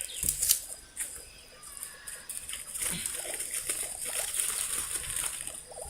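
Oil bottle and dry leaves being handled: a brief slosh and rustling in the first second, then scattered small rustles as an oil-filled toilet-paper funnel is set among the leaves of a campfire lay.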